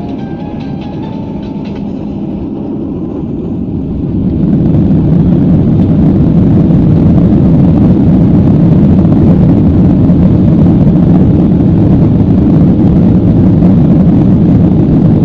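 Airliner engines heard from inside the cabin, going up to takeoff power about four seconds in. A loud, steady rumble follows as the plane rolls for takeoff.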